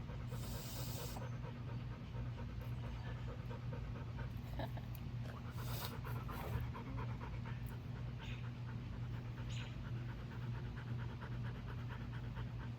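Faint, rapid, steady dog panting over a low hum.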